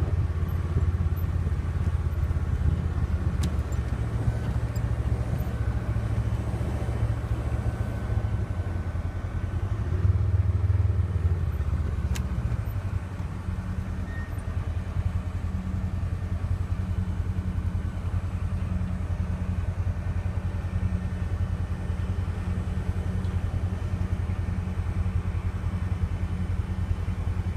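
A vehicle engine running steadily with a low rumble; its note shifts slightly about halfway through.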